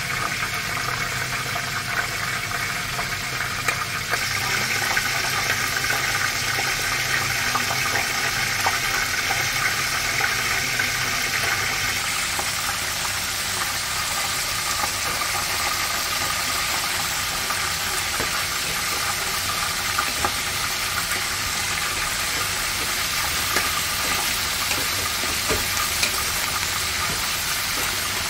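Pork, onion and ginger frying in a pot: a steady sizzle with occasional pops.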